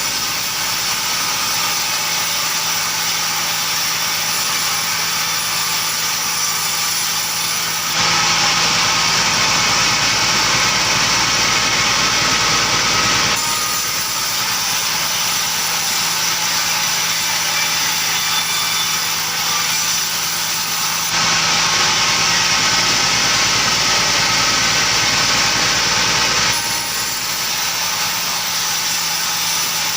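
Engine-driven timber saw running steadily, a continuous loud mechanical drone that shifts abruptly in level several times.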